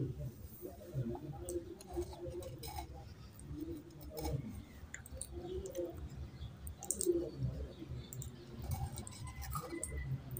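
Close-miked chewing with wet mouth clicks and smacks from a person eating curry and rice by hand. Near the end, a spoon scrapes in a clay pot of yogurt.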